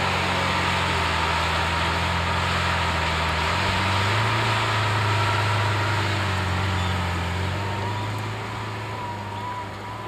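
Car engine running at low revs, its note stepping up a little about a third of the way in, then fading near the end as the car moves away.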